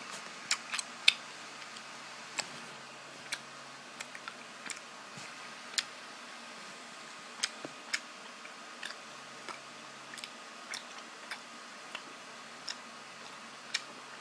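A person chewing candy: scattered sharp, irregular clicks and crunches from the mouth.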